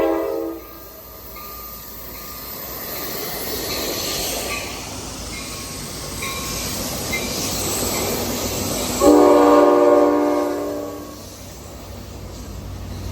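Amtrak passenger train passing close by: a train horn blast cuts off about half a second in, then the steady rumble and clatter of the cars rolling past, and a second loud horn blast sounds for about two seconds near the end.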